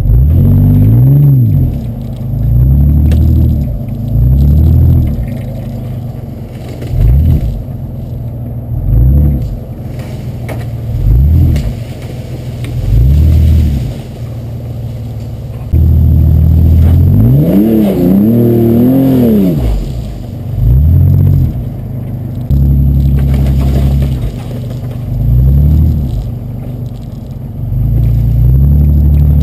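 Vehicle engine driven off-road, the throttle pressed and let off again and again so the engine revs up and falls back about every two seconds, with one longer, higher rev around the middle.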